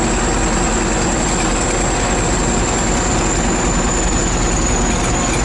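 ChTZ T-170 bulldozer's diesel engine running steadily, with a thin, high, steady whine over it.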